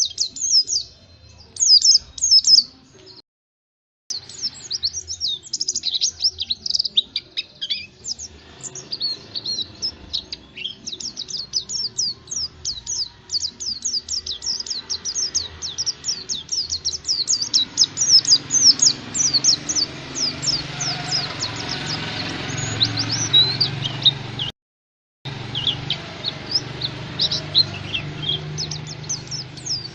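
White-eye (pleci) singing a fast, unbroken run of high twittering chirps, a lure song played to prompt a caged white-eye to sing. The song cuts out completely twice, about three seconds in and about twenty-five seconds in, over a low background hum.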